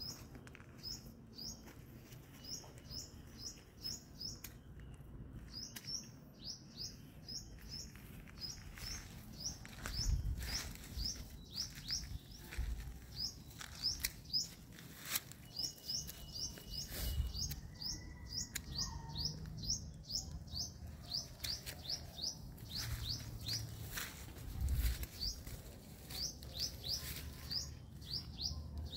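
A bird chirping over and over: short, high, down-slurred chirps in quick runs of several a second. Scattered clicks and a few low thumps sound along with it.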